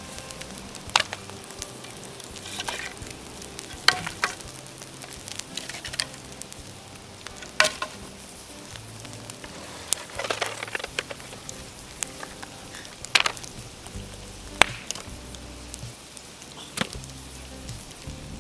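Bonfire of dead bamboo crackling: a steady hiss broken by sharp, irregular pops every second or so as the bamboo bursts in the heat.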